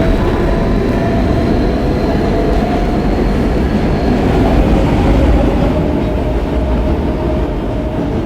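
R160B subway car with Siemens propulsion running on the rails: a steady, loud rumble of wheels and track, with a high motor whine that fades out about four seconds in.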